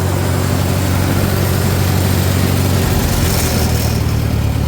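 Farmall 400 tractor engine idling steadily, its note shifting slightly about three seconds in. The engine has a fault that lets it keep running only on choke.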